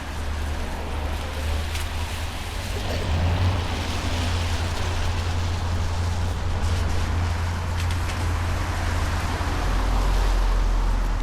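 Outdoor traffic noise: a steady low rumble under a broad hiss, swelling a little near the end.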